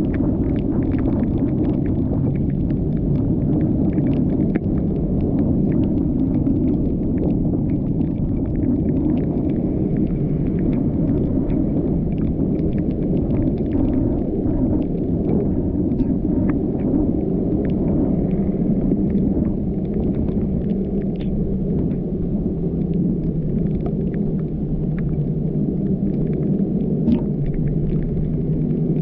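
Steady low rumble of a car driving on a wet road, road and engine noise, with light ticks scattered throughout.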